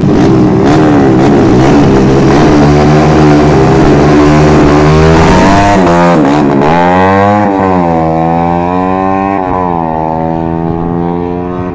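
Motorcycle engine running loudly at high revs, its pitch dropping about six seconds in and climbing back up, then holding fairly steady with a smaller dip and rise near the end.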